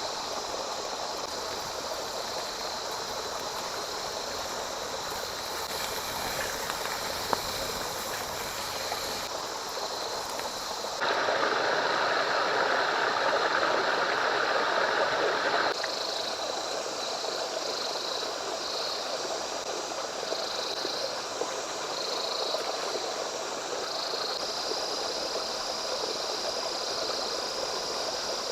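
Steady rushing of a running stream, louder for a few seconds from about 11 s in, then dropping back abruptly.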